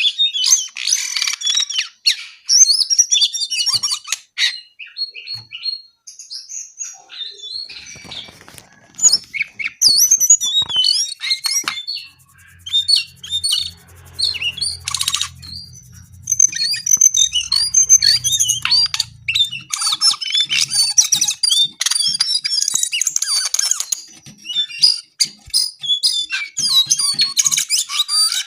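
Jongkangan coklat songbird singing hard: long, fast runs of high chirps, twitters and harsh squawky notes, broken by a few short pauses. A faint low hum sits under the song for a few seconds in the middle.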